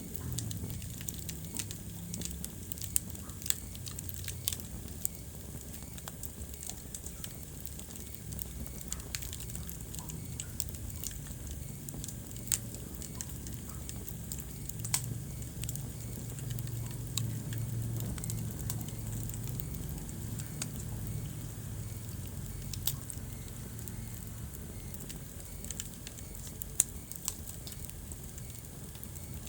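Wood fire crackling in a fireplace: a steady low rumble of burning with frequent small snaps and pops, and a handful of louder pops scattered through.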